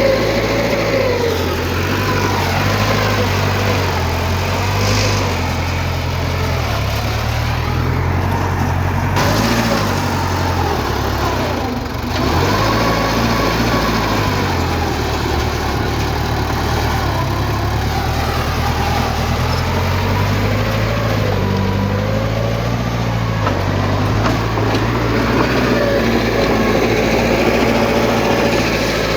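Heavy diesel earthmoving machinery running continuously, its engine pitch rising and falling every few seconds as the load changes.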